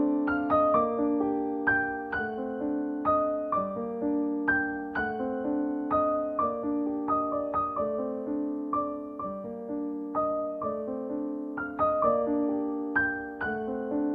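Background music: solo piano playing a slow, gentle melody over held chords, notes struck about twice a second and ringing out.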